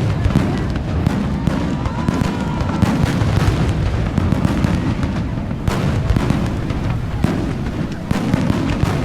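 Fireworks display going off in quick succession: dense bangs and booms over a continuous low rumble, with a thin whistle about two seconds in.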